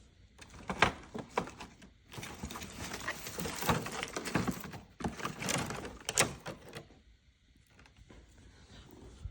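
Rustling and clattering of an artificial Christmas tree being handled and set up: a few sharp knocks, then several seconds of dense rustling with clicks, dying down near the end.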